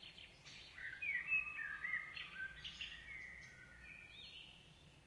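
Birdsong: several birds chirping and whistling in short sliding phrases over a faint outdoor hiss.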